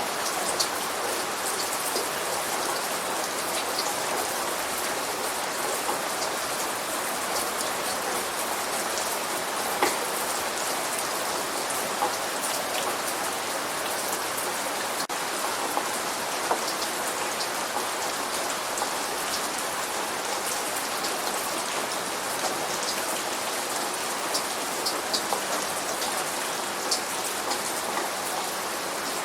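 Steady light rain falling, with scattered sharp ticks of single drops striking a surface now and then.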